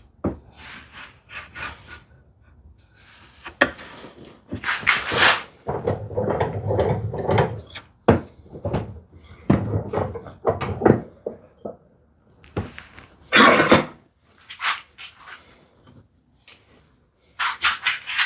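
Wooden rails and clamps being handled and set together: irregular wooden knocks, clatter and short scrapes, with a few sharp clicks.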